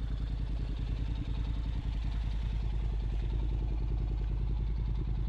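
Motorcycle engine running steadily under way, its firing pulses even throughout.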